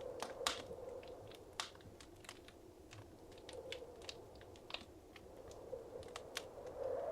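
Wood fire crackling in a fireplace: irregular sharp pops and snaps, a few each second, over a faint steady background of flame.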